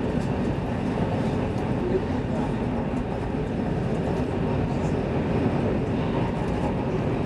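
X10 electric commuter train running at speed, heard from inside the carriage: a steady running noise from wheels on rail and motors, strongest low down.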